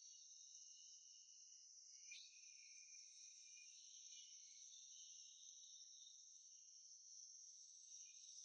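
Faint, steady, high-pitched insect chorus of several overlapping even tones, with a brief blip about two seconds in.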